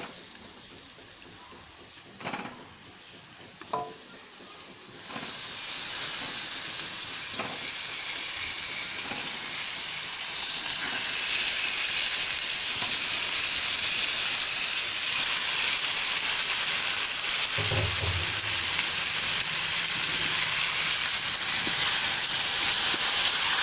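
Chicken pieces frying in a hot pan with onions and spices: a loud, steady sizzle that starts suddenly about five seconds in as the chicken hits the pan. A couple of soft knocks come before it.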